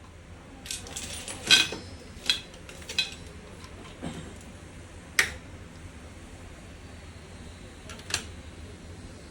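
Small metal parts and tools clinking and knocking, a handful of sharp metallic clinks in the first few seconds, another about five seconds in and one more near the end, over a steady low hum.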